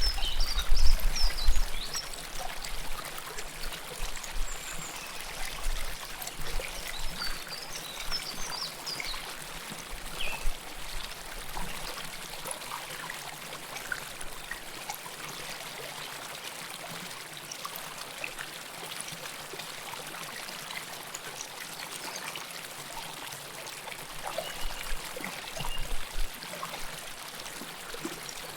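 River water flowing close up, a steady rush with trickling and pouring. A louder low rumble comes in the first two seconds.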